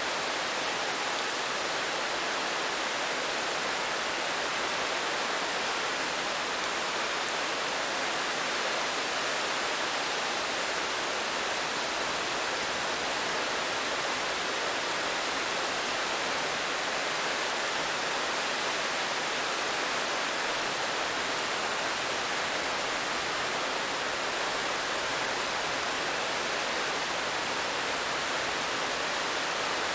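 Steady, even rain with no distinct drops or changes.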